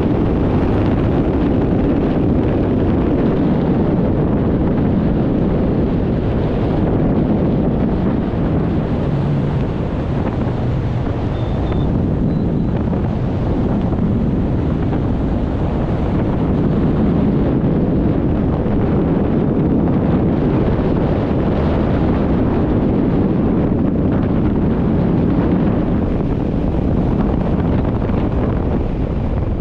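Steady wind buffeting the camera microphone during a tandem parachute descent under an open canopy.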